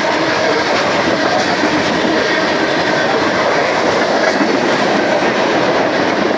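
Freight cars of a long mixed manifest train rolling past, a loud, steady noise of steel wheels on the rails.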